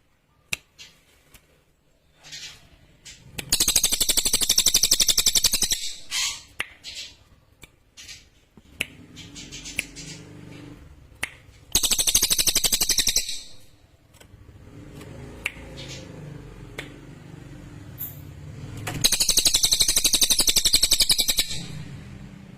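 A cililin songbird singing in three long, high, very rapid trills, about 8 seconds apart, each lasting two to three seconds; a clear, sharp song.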